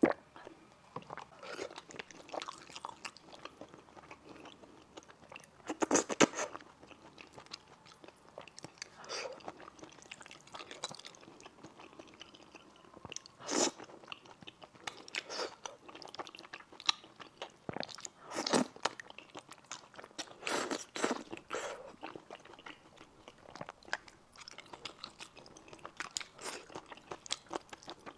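Close-miked chewing of spicy fried rice noodles, wet mouth noises with some crunch, and a few louder moments where strands are sucked in.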